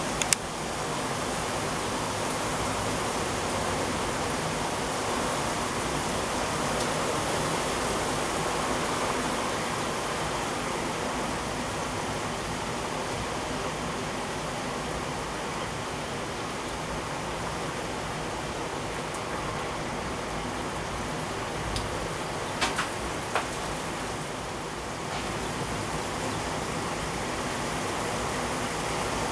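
Heavy rain pouring down steadily in a severe thunderstorm downpour, a dense even hiss. A few short sharp ticks stand out just after the start and again about three quarters of the way through.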